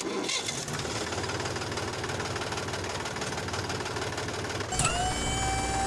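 Miniature tractor's motor running with a steady fast clatter as it drives forward. About five seconds in, a steady high whine joins, dipping slightly in pitch as it starts.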